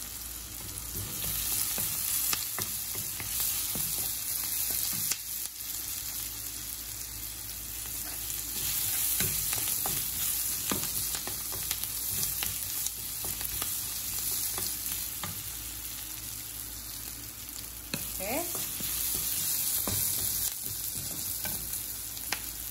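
Chopped onions and whole spices sizzling in hot oil in a non-stick wok, stirred with a wooden spatula that scrapes and knocks against the pan again and again.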